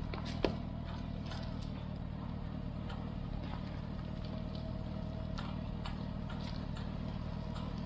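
Tractor engine running steadily at low speed, with a single sharp metallic click about half a second in.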